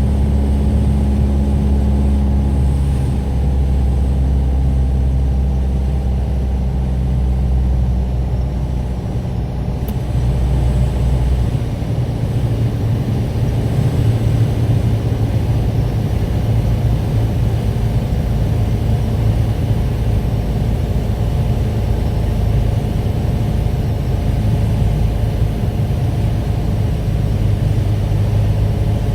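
Piper PA-28 Warrior's four-cylinder Lycoming engine and propeller running steadily, its note changing about two seconds in and again around eleven seconds in.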